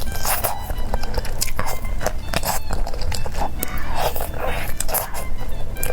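Close-miked eating: a person biting and chewing, with many short crisp clicks and crunches over a steady low hum.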